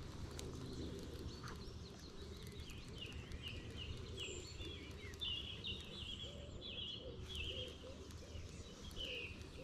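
A small bird calling in a run of short chirps, about two a second, starting a few seconds in, over low steady background noise.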